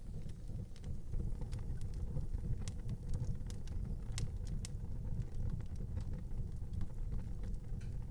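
Wood fire burning in a fireplace: a steady low rumble of flame with scattered crackles and a few sharper pops, strongest a few seconds in.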